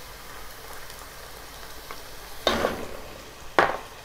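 Sliced onions frying in oil in a kadai, a faint steady sizzle, with two short clatters about two and a half and three and a half seconds in as ginger-garlic paste is scraped off a glass bowl with a wooden spatula into the pan; the second clatter is the louder and sharper.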